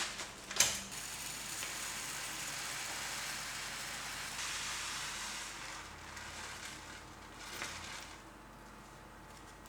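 A sharp click, then a steady hiss for about four seconds that fades out, from kitchen work.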